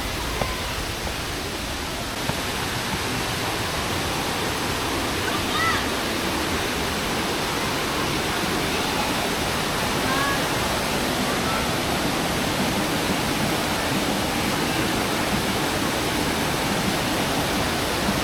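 Steady, even rushing noise, a little louder after about three seconds, with a few faint short chirps in the middle.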